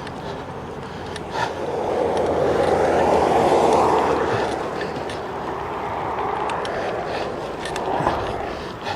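Electric mountain bike rolling over a rough forest trail: a steady rumble of tyre noise with scattered rattles and knocks. It swells louder about two seconds in and eases off again a few seconds later.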